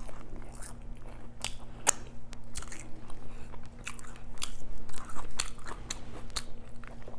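Close-miked chewing and biting of food, a run of irregular short wet clicks and crunches of the mouth, over a faint steady low hum.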